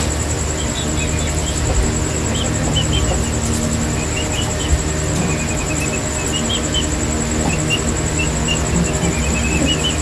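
Scattered short, high bird chirps over a continuous high-pitched trill and a steady low hum.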